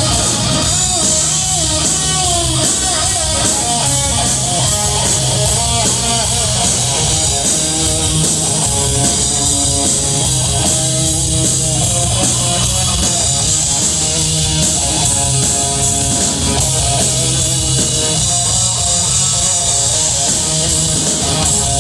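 Live heavy metal band playing: distorted electric guitar with wavering bends over steady bass and a drum kit with constant cymbals.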